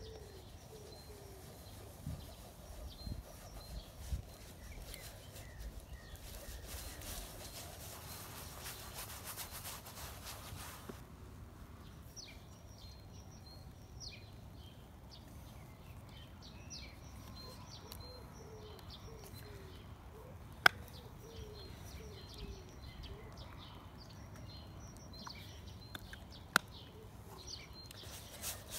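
Faint chirping of small birds, many short calls repeated through the second half. A stretch of soft hiss comes in the first third, and two sharp clicks sound later, the loudest things heard.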